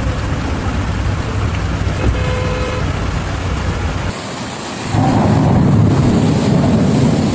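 Heavy rain with passing traffic and a short car horn toot about two seconds in. After a cut about four seconds in, a loud low rumble takes over.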